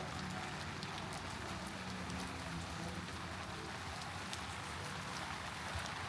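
Heavy rain falling and pattering on wet pavement and surfaces, a steady hiss with many fine drop ticks, over a faint low hum of city traffic.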